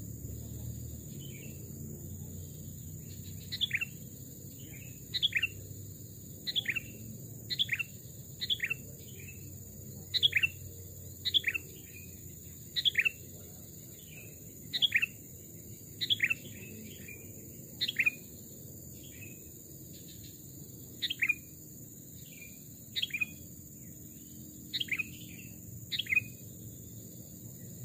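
Sooty-headed bulbul (kutilang) calling: short, sharp notes sweeping down in pitch, often in pairs, repeated every second or so from a few seconds in.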